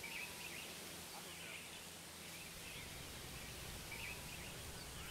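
Faint outdoor ambience: a steady hiss with small birds chirping briefly every second or so.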